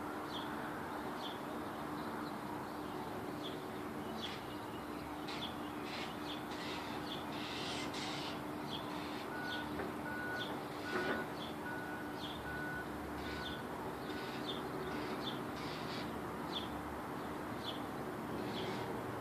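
A bird calling with short high chirps over and over, about once a second, over a steady low hum. A short run of evenly spaced, higher beeps comes in midway.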